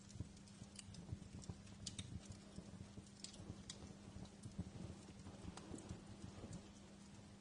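Wood fire crackling in a fireplace: scattered sharp snaps and pops at irregular moments over a low, uneven rumble of the burning.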